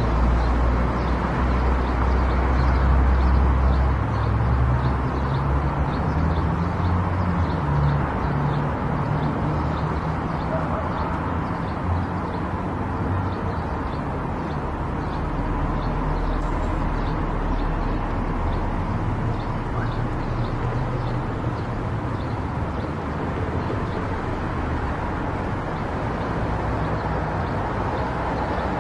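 A car being driven on a road: steady engine and tyre noise. A deep rumble is heavier for the first several seconds and then settles.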